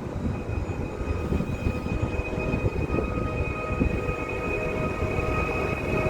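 A train running on the rails: a steady low rumble with a steady high whine held over it.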